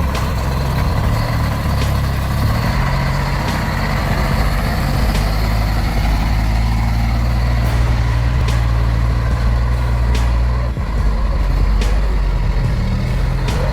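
Scania 113 heavy truck's diesel engine running steadily while pulling a full load, with a brief dip in the engine note about eleven seconds in.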